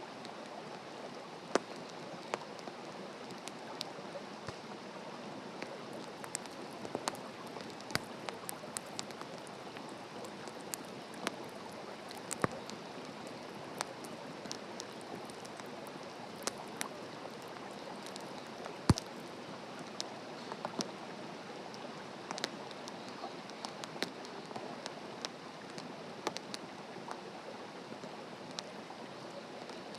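Wood campfire crackling: a steady hiss with frequent irregular sharp pops, the loudest about nineteen seconds in.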